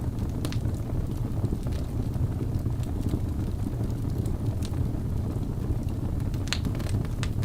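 Wood fire burning in a fireplace: a steady low rumble of flames with scattered crackles and pops, the sharpest two near the end.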